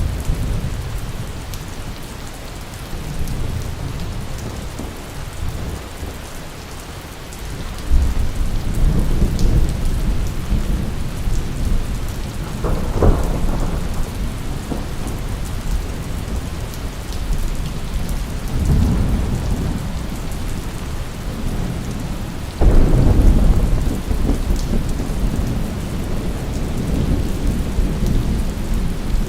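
Steady rain falling, with repeated low rolls of thunder: a rumble building about eight seconds in, a sharper crack in the middle, and a sudden loud rumble a little past two-thirds of the way through.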